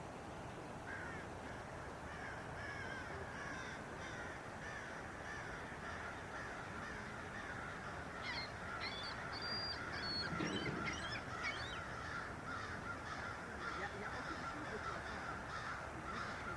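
A chorus of birds chirping and calling over a steady rush of water, the calls growing busier and a little louder about halfway through.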